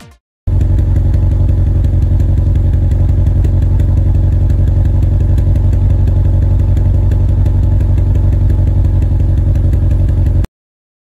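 Exhaust of a Subaru Pleo RS's 660 cc four-cylinder engine idling roughly with a pulsing beat, starting about half a second in and cutting off near the end. A rough idle like this is the sign of a chipped No. 1 exhaust valve and low compression on that cylinder.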